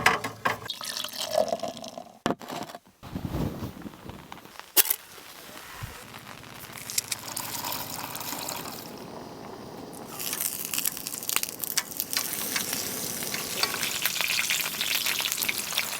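A string of short camp sounds with abrupt changes between them: liquid splashing and pouring, a few sharp clicks, then a dense crackling hiss like meat frying or sizzling in the second half.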